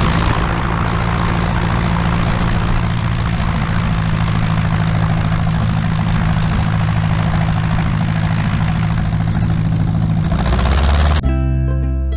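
Cessna 150M's four-cylinder Continental O-200 engine and propeller running at a steady drone with airflow noise. Plucked-string music cuts in near the end.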